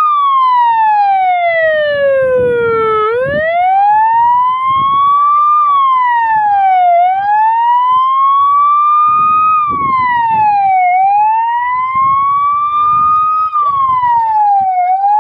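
Siren wailing. The tone first falls for about three seconds, then keeps rising slowly and dropping quickly, about once every four seconds, with irregular low noise underneath.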